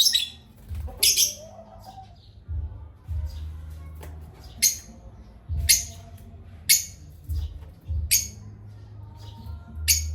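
Parrots calling with about seven short, harsh, high-pitched squawks at irregular intervals, over a low background rumble.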